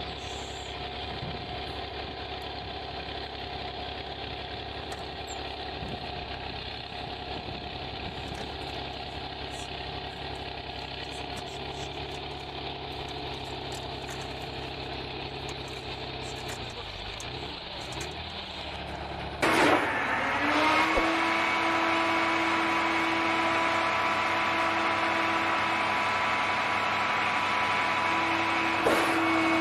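Motor vehicle engine running steadily, heard from inside the vehicle. About two-thirds of the way through, the sound cuts abruptly to a louder steady vehicle hum with several held tones.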